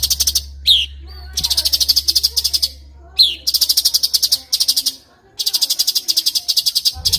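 Cucak cungkok singing loud, rapid pulsed trills, each about a second and a half long, repeated four times, with a short falling note between them.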